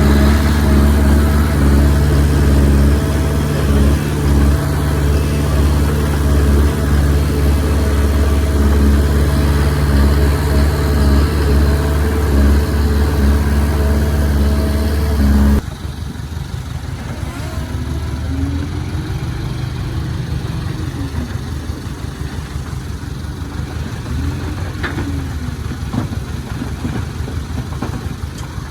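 Diesel engine of earthmoving machinery running steadily and loudly. About halfway through, the sound cuts abruptly to a quieter, rougher engine sound.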